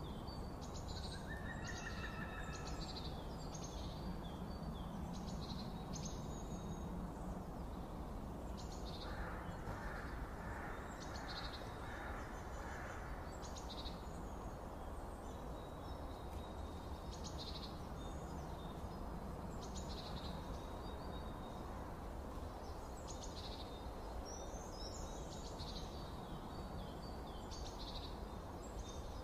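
Birds chirping outdoors, with short high calls repeating every second or two, over a steady low rumble. A lower, pulsed call repeats for a few seconds from about nine seconds in.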